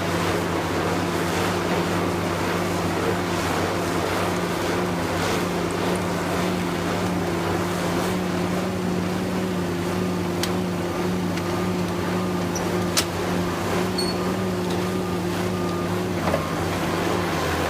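Heavy machinery's engine running steadily at a constant pitch, with a few faint clicks and knocks over it.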